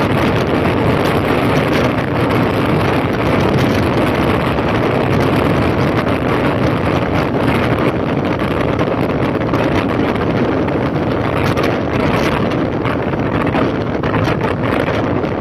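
Wind rushing loudly and steadily over the microphone on a moving 2005 Honda CB1300 motorcycle, with the bike's inline-four engine running underneath.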